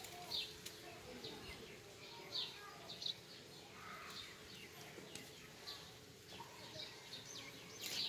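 Small birds chirping outdoors: short high calls every second or so, over a faint steady background of outdoor ambience.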